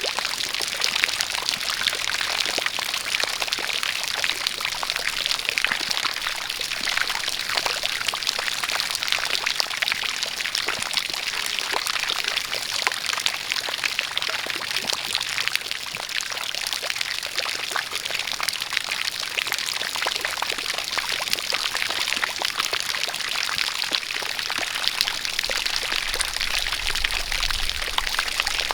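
A steady stream of water pouring and splashing, with rain falling, a dense even hiss full of fine patter.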